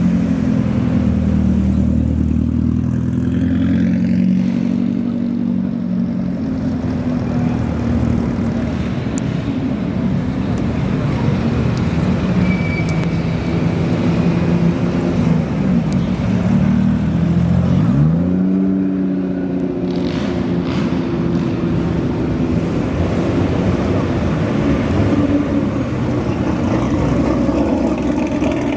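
Car engines running as modified show cars drive out, a steady engine note throughout. About two-thirds of the way through the pitch dips and then climbs again.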